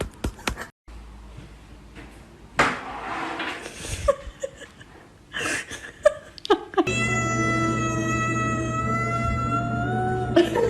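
Domestic cat yowling: one long drawn-out caterwaul of about three and a half seconds, held at a steady pitch and rising a little just before it stops. It comes after a few short, breathy sounds.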